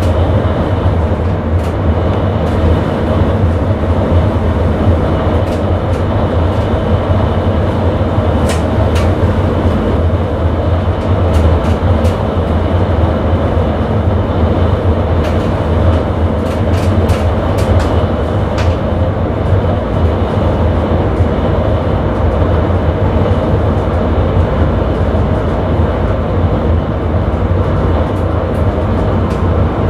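Sprinter electric passenger train running along the track, heard from the driver's cab: a steady low rumble with scattered sharp clicks from the wheels on the rails, most of them in the middle stretch.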